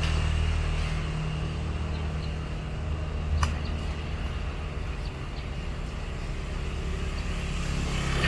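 A boat's engine running steadily with a low, even drone, a little quieter in the middle and building again near the end. A single sharp click about three and a half seconds in.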